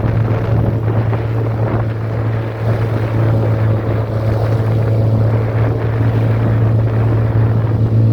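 A boat's motor running steadily under way, a constant low drone, with strong wind buffeting the microphone.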